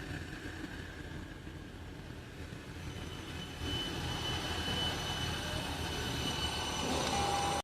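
Toyota Land Cruiser 200's 4.5-litre V8 turbodiesel running after its engine mounts have been replaced. It steps up in level about halfway through, when a high steady whine joins the rumble.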